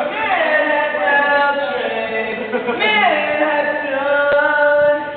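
A man singing unaccompanied in long, drawn-out held notes, in two phrases that each open with a downward slide in pitch, the second starting about three seconds in.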